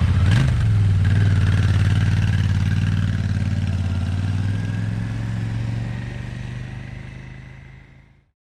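Royal Enfield Interceptor 650's parallel-twin engine running just after starting, with a short rise in revs right at the start, then settling to an even idle that fades out near the end.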